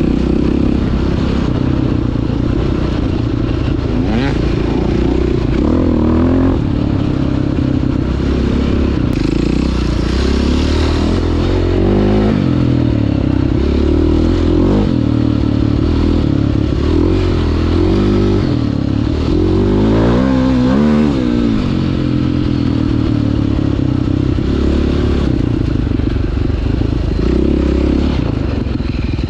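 Dirt bike engine, the 2009 KTM 530 EXC's four-stroke single, running hard on the trail, its pitch rising and falling with throttle and gear changes, with a few knocks from the bike over rough ground.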